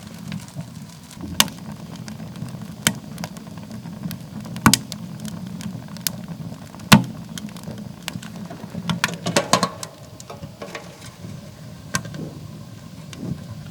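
Wood campfire burning with a steady low rumble, crackling and giving off irregular sharp pops, with a quick cluster of pops about two-thirds of the way through.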